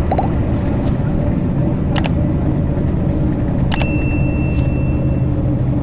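Steady drone of a Scania K340IB coach's rear-mounted diesel engine heard from inside the cabin while it drives. Sharp clicks about two seconds in and again near four seconds, the second followed by a brief ringing ding.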